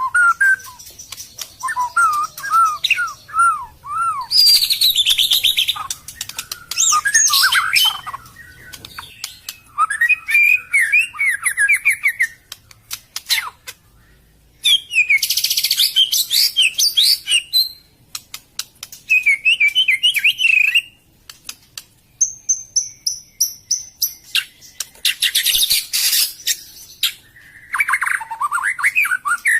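White-rumped shama (murai batu) singing: a string of varied phrases of looping whistles and fast, high chattering notes, each a second or two long, broken by short pauses.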